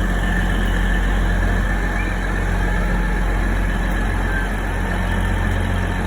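A train's engine idling steadily: a constant low hum with a faint high whine over it.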